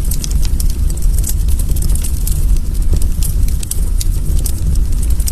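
Crackling-fire sound: irregular sharp pops and crackles over a steady low rumble.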